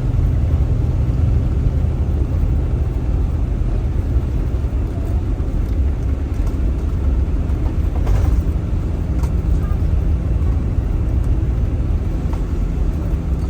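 Steady low road rumble of a moving tour vehicle, heard from inside the cabin, with a brief faint click about eight seconds in.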